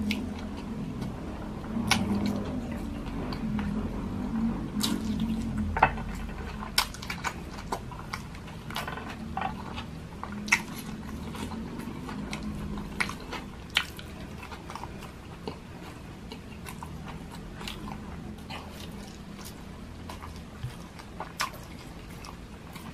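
Close-miked chewing: a man eating garlic fried rice with his hands, with wet mouth sounds and many scattered sharp clicks.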